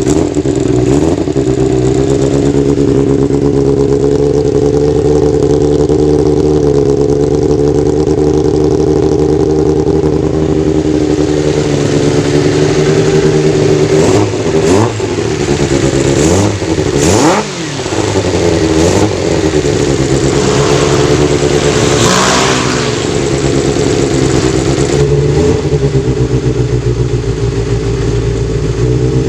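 Kawasaki GPz 400 motorcycle engine running at a steady idle, with the throttle blipped a few times about halfway through. The bike is being run to test a hard-start problem.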